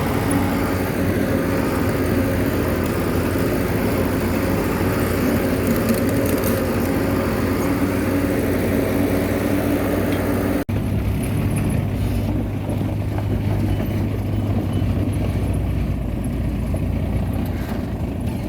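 Bulldozer's diesel engine running steadily. About ten seconds in there is an abrupt break, after which the engine sound is deeper and duller.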